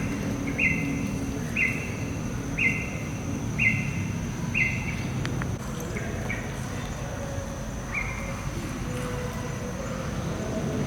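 A bird gives a short, flat call about once a second, seven times, then only a few more scattered calls. A steady high insect drone runs under it, with a low outdoor rumble.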